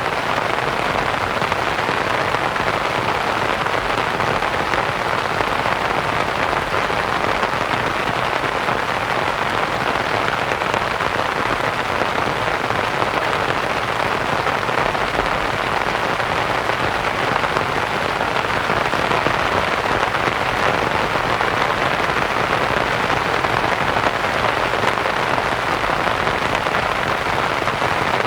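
Steady rain pattering on a canvas tent, blended with soft white noise into an even, unbroken hiss.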